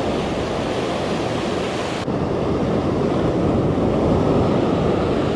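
Sea surf washing against the shore, with wind buffeting the microphone; the sound turns duller about two seconds in.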